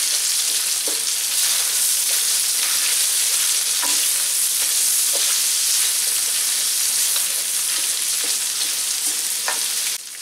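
Chicken pieces and sliced onion sizzling steadily in hot oil in a large pan, stirred with a silicone spatula that now and then taps and scrapes the pan. The sizzle drops off suddenly near the end.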